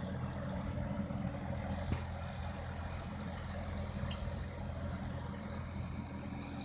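Sonalika 4x4 tractor's diesel engine running steadily, as when pulling a harrow, with a single click about two seconds in.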